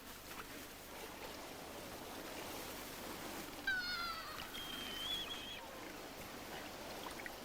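Surf washing steadily, with seabird calls about halfway through: a call that falls in pitch, then a higher, wavering held note.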